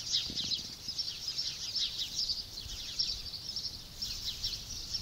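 Many small birds chirping together: a dense, continuous chorus of short, high, down-sliding chirps.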